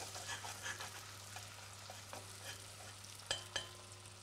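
Chopped onion and garlic sizzling gently in butter and oil while a metal spoon stirs them through the pot, with soft scrapes and small clicks. Near the end come two sharp clinks of the spoon against the pot.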